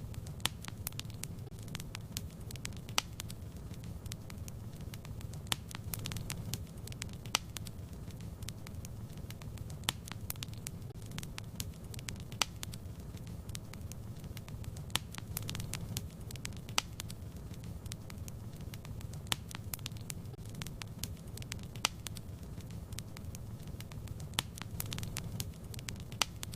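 Fire in a fireplace crackling, with irregular sharp pops and snaps over a steady low rumble of the flames.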